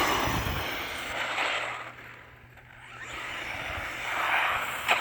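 Redcat Volcano EXP Pro electric RC monster truck on a 2S lipo driving off. Its motor whines up at the start, and the sound fades and then swells again as it goes away and comes back.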